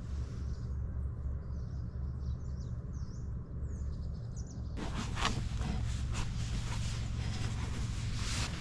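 Small birds chirping over a steady low rumble, then from about five seconds in, a run of rustling and clattering noises.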